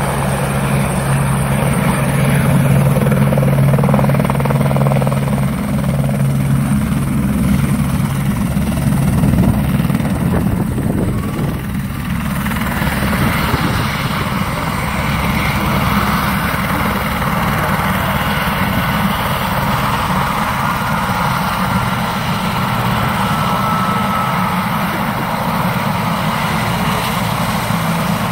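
Medical helicopter close by, its rotor chopping rapidly and its engine running steadily and loud.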